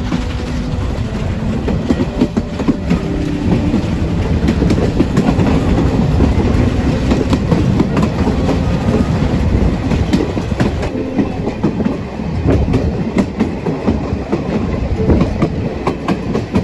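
Metre-gauge heritage train running along the track, its wheels rumbling and clacking steadily over the rail joints, heard from aboard the carriages.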